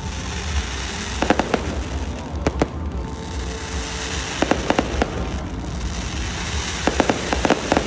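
Fireworks bursting in quick clusters of several sharp bangs, four clusters a second or two apart, over a steady low rumble.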